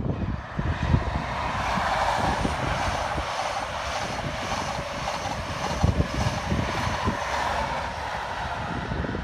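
InterCity 125 high-speed train running through at speed: a steady sound of the class 43 power car's diesel engine and the wheels of its Mk3 coaches on the rails, a little louder in the first couple of seconds.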